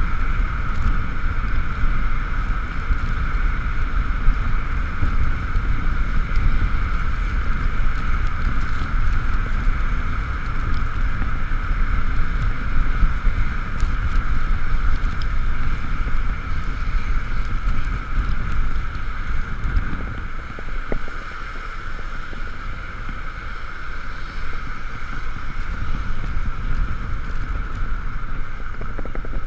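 Riding noise from a GoPro mounted on an Ekoway ML5000 electric vehicle in the rain: steady wind rumble on the microphone under a constant high-pitched whine. The rumble eases a little about two-thirds of the way through.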